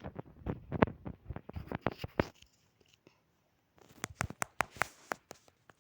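Light taps, clicks and scratches of small objects being handled and set down on a hard surface. They come in two quick runs with a short pause between.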